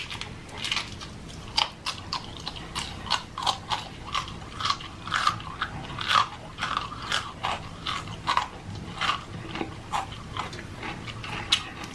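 A person chewing and crunching food close to the microphone: an irregular run of crisp crunches and wet mouth sounds, a few a second.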